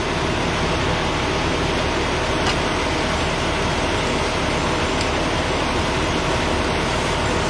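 Large vehicle engine idling steadily, an even running noise with no change in level.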